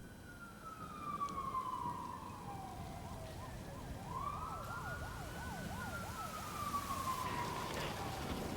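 A siren sounding: a long falling wail, then a fast warbling yelp, then a rise and another slow fall, over a low rumble.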